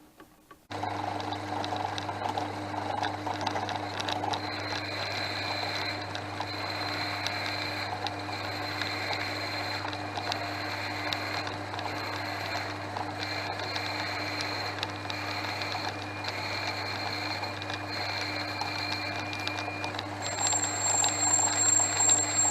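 Portass Model S lathe starting under a second in and then running steadily with a low hum and a few steady whining tones; near the end a high-pitched whine joins and the sound gets louder.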